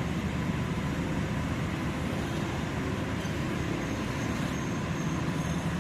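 Steady low engine rumble and traffic noise, with no distinct events.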